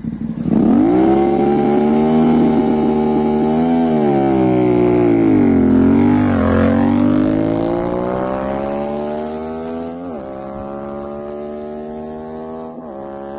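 CFMoto 450SR parallel-twin engine through an aftermarket RS exhaust, pulling away under hard acceleration. The revs climb and twice drop sharply as it shifts up a gear, and the sound grows fainter as it moves off.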